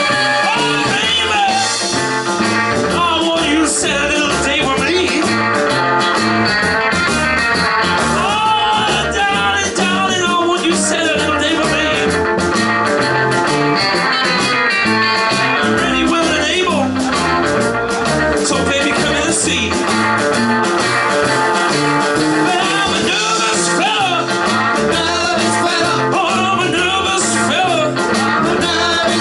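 Rock and roll band playing live, with guitar lines bending in pitch over a stepping bass line and a steady drum beat.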